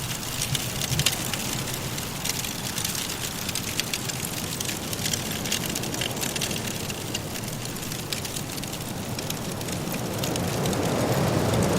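Wood fire crackling in a fireplace, with many small sharp pops over a steady rush of blizzard wind. The wind swells louder near the end.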